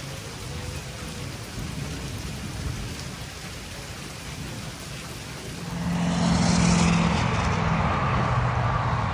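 Steady rain falling. About six seconds in, a much louder swell of rushing noise with a low hum sets in and holds.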